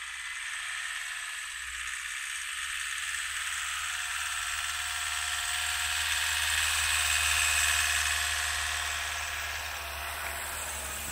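A small electric motor runs steadily, making a continuous whirring hiss over a low hum, slightly louder about two-thirds of the way through.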